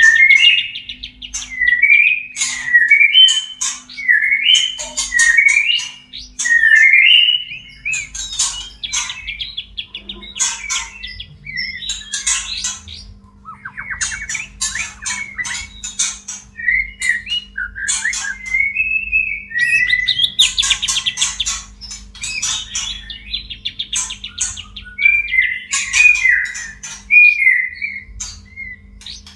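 White-rumped shamas calling in breeding condition: short whistled phrases that swoop up and down, repeated again and again, mixed with harsh rapid chattering and clicking trills. A faint steady hum runs underneath.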